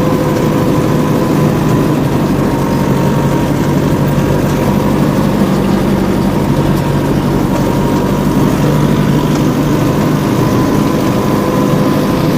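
Homemade mini-tractor's engine running steadily at a constant speed.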